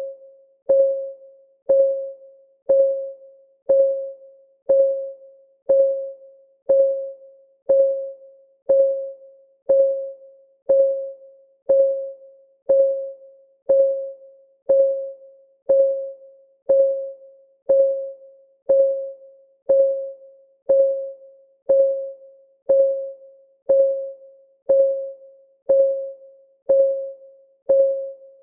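Clock ticking sound effect: a steady tick about once a second. Each tick is a short, pitched knock that dies away quickly.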